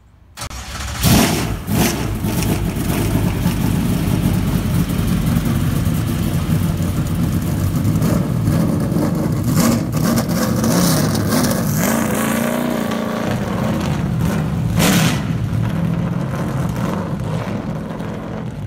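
Car engine running and revving, with a few brief loud blasts near the start and again around ten and fifteen seconds in.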